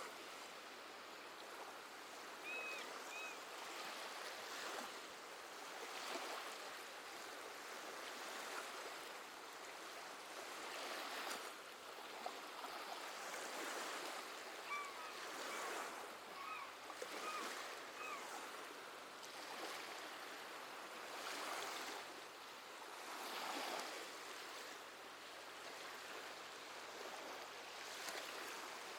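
Gentle sea waves washing ashore in slow swells that rise and fall every few seconds. Short seabird calls sound over them: two about three seconds in, and a run of about five near the middle.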